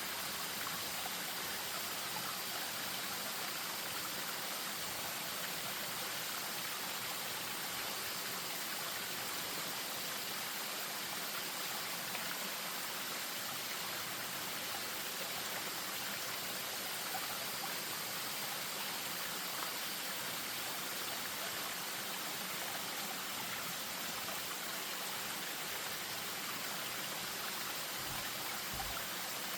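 Spring-fed stream spilling over a small waterfall: a steady, unbroken rush of running water.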